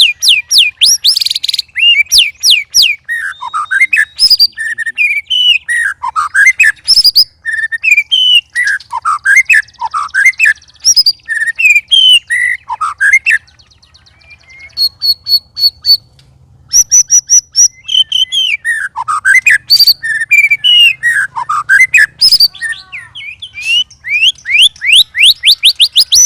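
White-rumped shama (murai batu) singing a long, varied song of loud whistled phrases. It includes fast rapid-fire runs of repeated notes near the start and near the end, with short pauses about halfway.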